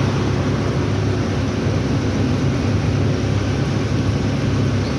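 Truck cab noise while driving: a steady diesel engine drone with road noise.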